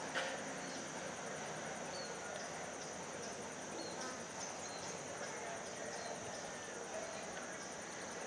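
Steady high-pitched insect chorus with a fast pulsing trill above it. A few short, faint bird chirps come through, and there is a single sharp click just after the start.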